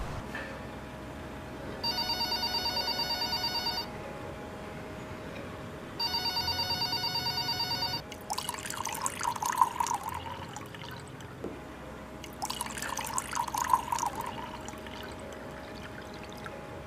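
A telephone rings twice, each ring a trilling electronic tone about two seconds long with a two-second gap. Then liquid is poured into glass tumblers in two spells of a couple of seconds each, a splashing trickle.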